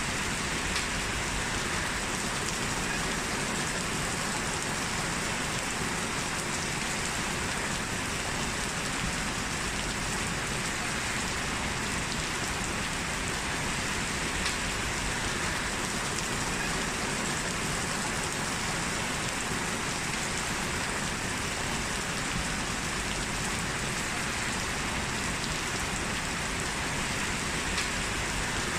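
Steady rain falling and pattering on a surface, with a few faint drop ticks.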